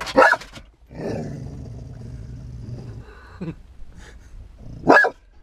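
A dog growling steadily, with a sharp bark just after the start and a louder one near the end, as it goes after the water spray of the truck wash.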